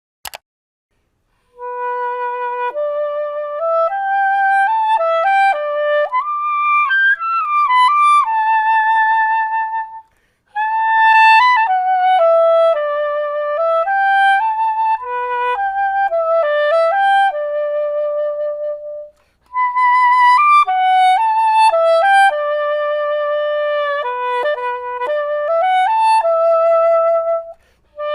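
Soprano saxophone playing a solo melody in three phrases, separated by short breaths about ten and nineteen seconds in. It is preceded by a brief click at the very start.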